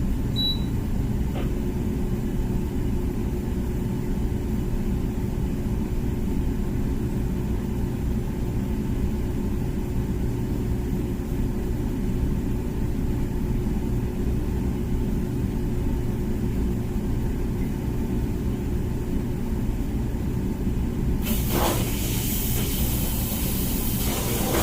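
Comfee dishwasher starting its hygiene cycle: a short high beep, a click about a second later, then a steady motor hum over a low rumble. Near the end a loud hiss of water spraying starts.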